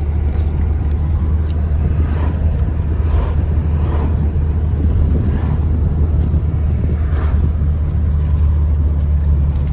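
Steady low rumble of a car in motion, unchanging throughout.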